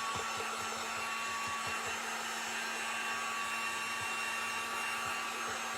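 Handheld hot-air blower running steadily, a high motor whine over rushing air, drying freshly applied chalk paint.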